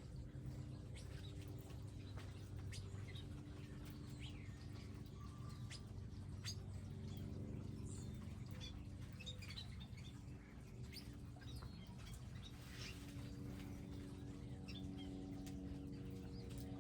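Small wild birds chirping at a garden feeder: scattered short, high chirps, with a faint low steady hum underneath.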